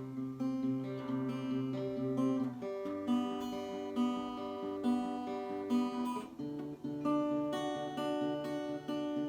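Acoustic guitar strummed in a slow instrumental passage, about one strum a second, with the chord changing every few seconds.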